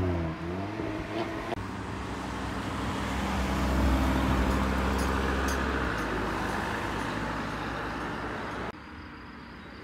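Audi RS3 Sportbacks' turbocharged five-cylinder engines driving past under power. First one engine note dips and climbs again, then another car passes on a steady note that swells and fades. Near the end it cuts to a much fainter distant car.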